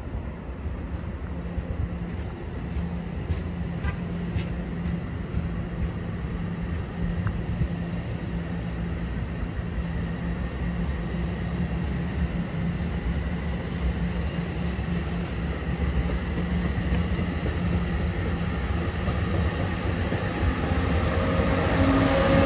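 NJ Transit multilevel commuter train rolling past, a steady low rumble of wheels on rail with a constant hum, slowly growing louder. Near the end the electric locomotive draws close, adding louder steady tones.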